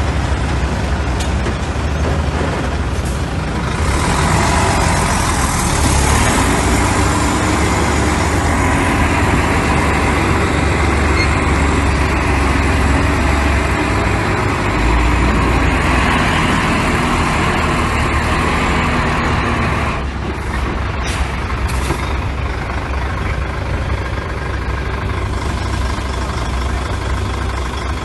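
Heavy diesel engine of earthmoving machinery running, with a faint high whine. It grows louder about four seconds in and drops back to a lower, idle-like level around twenty seconds in.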